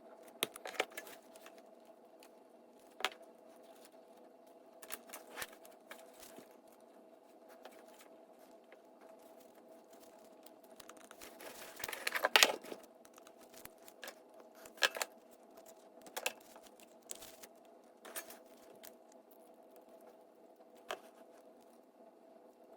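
Scattered small clicks, taps and scrapes of parts, wires and tools being handled on a workbench, with a louder burst of scraping and clicking about twelve seconds in, over a faint steady hum.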